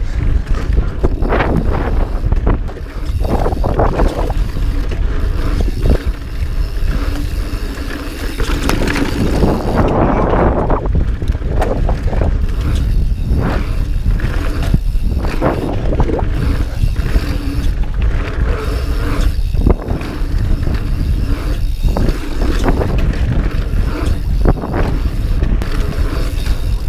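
Mountain bike ridden over rough, rocky trail, with frequent knocks and rattles from the bike, under a constant low rumble of wind buffeting the action camera's microphone.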